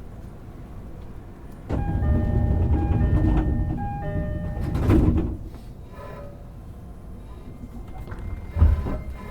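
E231-series train at a station stop: the door-closing chime sounds in stepped tones and the sliding doors close, ending with a thud about five seconds in. A second sharp thump comes near the end.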